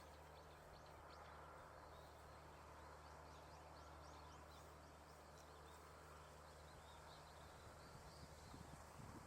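Near silence: a faint steady low hum, with faint short high bird chirps scattered through the middle. A low rumbling noise starts to build in the last second.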